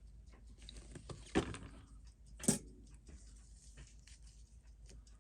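Two short, faint clicks about a second apart: small metal tools and watch-movement parts being handled on a watchmaker's bench during disassembly.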